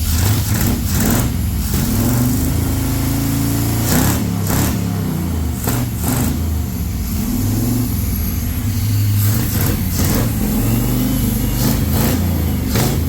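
A freshly swapped car engine in a mud buggy running on its first runs after installation and new timing, blipped up and back down twice, once a few seconds in and again near the end, with occasional sharp clicks over it.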